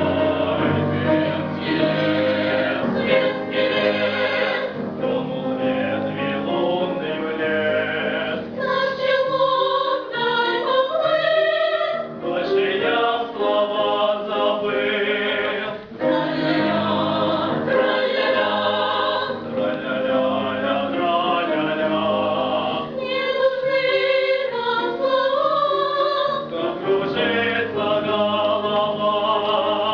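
Vocal ensemble singing a song in several voices, with continuous music throughout.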